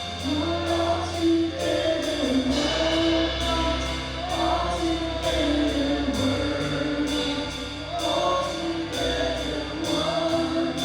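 Worship band playing a slow song with a group of voices singing, over bass and a steady beat of about two to three hits a second.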